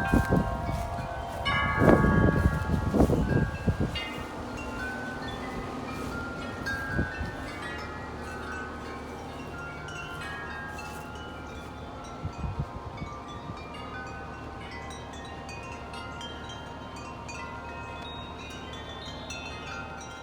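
Wind chimes ringing in gusty wind, many tones overlapping. Wind buffets the microphone hard in the first few seconds, then eases, leaving steadier ringing.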